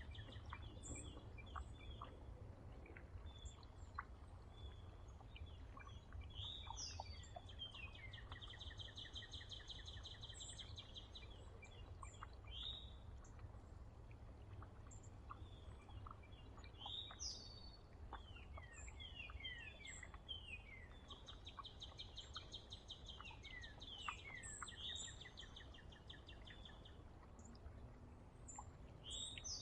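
Several songbirds calling and singing: trilled phrases a couple of seconds long, recurring every few seconds, mixed with runs of short falling chirps and high thin notes, over a steady low rumble.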